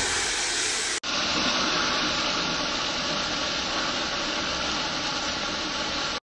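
Chicken and onions sizzling in a frying pan, a steady hiss that breaks briefly at a cut about a second in, carries on as tomato puree goes in, and stops abruptly just before the end.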